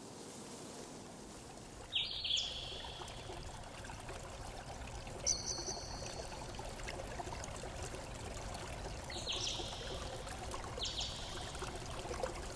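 A small stream of water trickling and pouring steadily. Birds give short, high chirps about five times over it.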